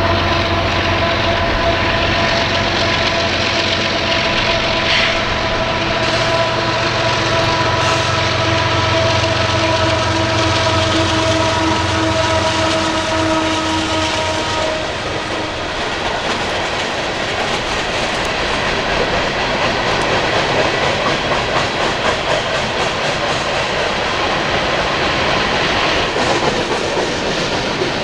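Diesel locomotives of a loaded coal train working upgrade, with steady engine and turbo tones that fade out about halfway through. Then come the clattering wheels and rumble of loaded coal hopper cars rolling past.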